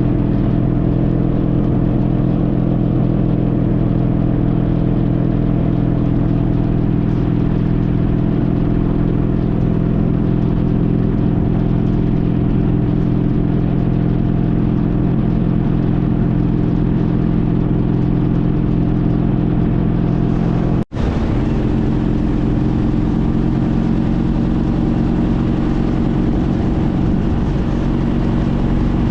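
2014 Honda CTX1300's V4 engine running at a steady cruise under way, with road and wind noise. It cuts out abruptly for an instant about two-thirds of the way through and resumes at a slightly different steady pitch.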